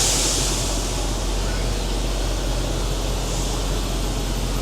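Steady vehicle noise: a constant low hum under an even hiss, without change.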